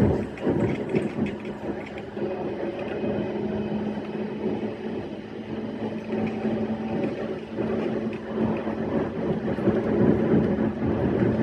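E131-series electric train running along the line: a steady rumble of wheels and running gear with a low, steady hum.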